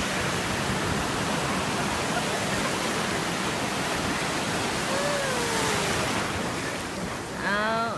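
Ocean surf rushing and breaking on the shore, a steady loud wash of noise. A faint voice call falls in pitch about five seconds in, and a voice starts briefly near the end.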